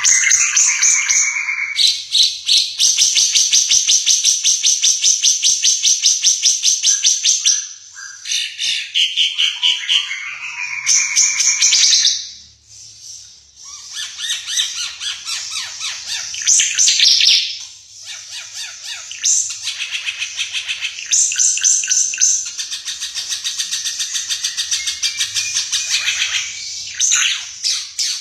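Timor figbird singing: long runs of rapid repeated high notes mixed with varied chattering phrases, broken by short pauses.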